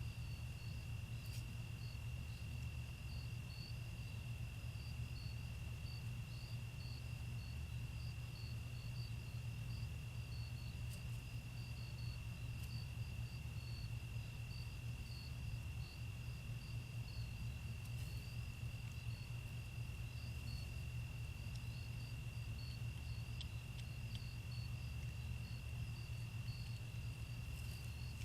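Crickets calling: one steady, unbroken high trill with a second insect's rapid chirps, about three a second, above it, over a constant low hum.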